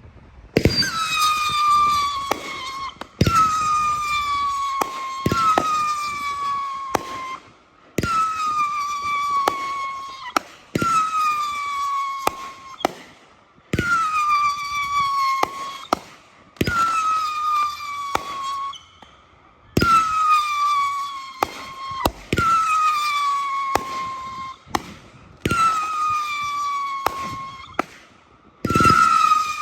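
500 g consumer firework cake (Red Lantern 'You Are Fired') firing shot after shot. Each shot launches with a sharp crack and carries a loud whistle that falls slightly in pitch over about two seconds, with further cracks and bangs between. About eleven whistling shots come at roughly three-second intervals.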